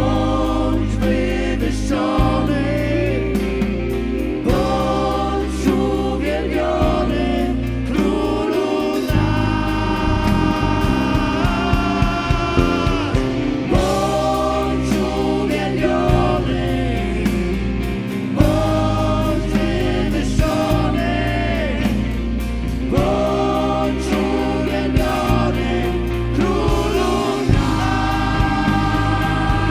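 Live worship band music: several voices singing a held melody together over bass, keys and steady drums.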